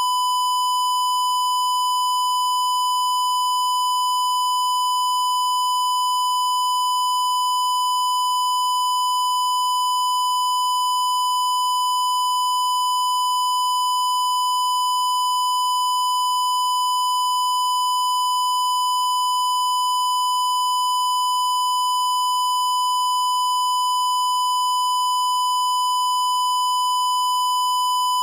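A continuous high-pitched electronic tone, held at one pitch and level without a break, with a faint click about two-thirds of the way through.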